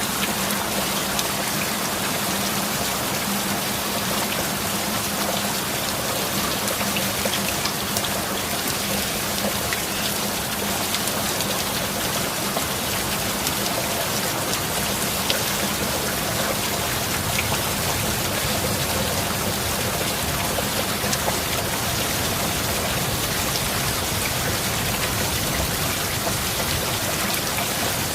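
Steady heavy rain, an even hiss with scattered drop ticks on surfaces. A faint steady low hum runs underneath.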